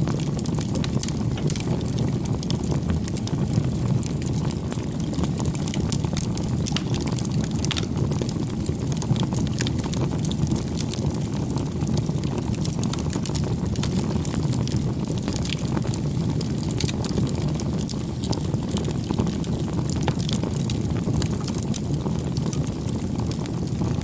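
Wood fire burning steadily, a low rumble of flames with frequent small crackles and pops.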